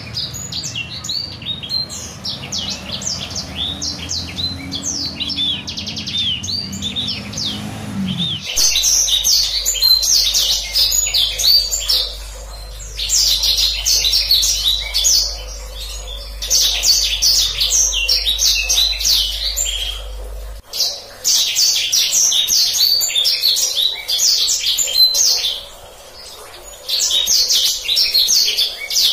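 Black-throated canary (blacksang) singing a long, fast, rolling string of high chirps and trills in bursts, with short pauses between phrases. The background hum changes abruptly about eight seconds in and again about twenty seconds in, where the recording is spliced.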